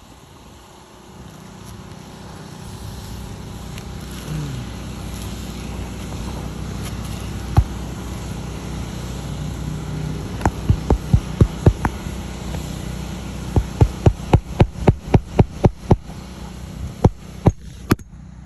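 A machine hum builds up and runs steadily. About halfway through, a rapid series of sharp knocks or clicks joins it, several a second. The sound cuts off suddenly near the end.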